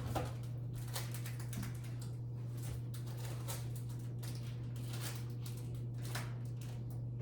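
Light clicking and rustling of packages and boxes being handled and moved while searching for popcorn, irregular throughout, over a steady low hum.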